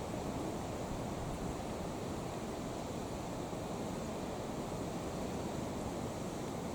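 Strong wind rushing over the microphone, a steady low noise with no other sound standing out.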